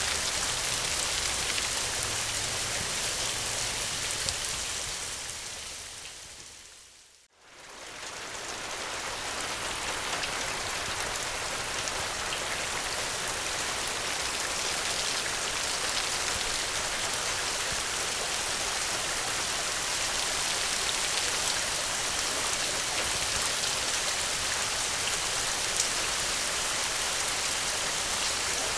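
Steady rain falling in an even hiss of drops. About seven seconds in it fades down to near silence and swells back up within a second or two, then carries on unchanged.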